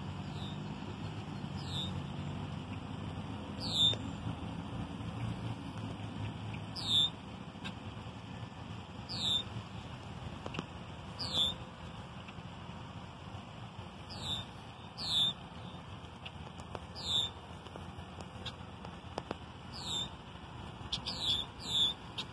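A bird calling over and over: a short, high note that drops steeply in pitch, repeated every two seconds or so, with three in quick succession near the end.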